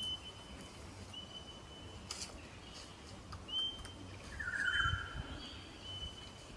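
A bird calling: a series of thin, high, steady whistled notes, each starting with a quick upward flick, repeated about six times. A brief, rougher call and a low rumble come in about two-thirds of the way through.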